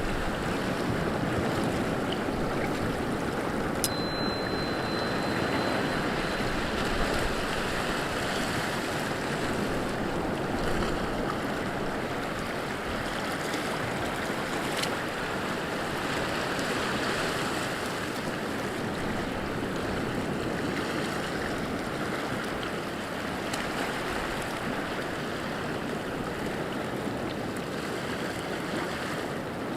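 Water rushing steadily without swells, like a flowing stream, with a brief faint high tone about four seconds in.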